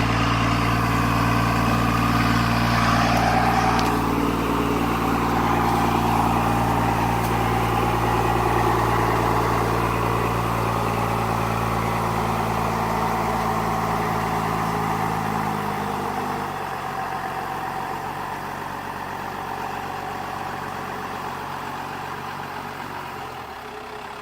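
Truck engine running at a steady idle, its low note dropping away about two-thirds of the way through and the sound fading toward the end.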